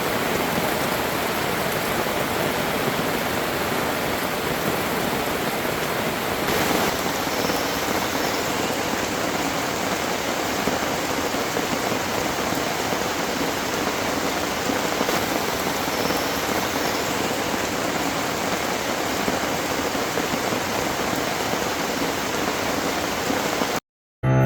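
Steady rain falling, an even, dense hiss that cuts off abruptly shortly before the end.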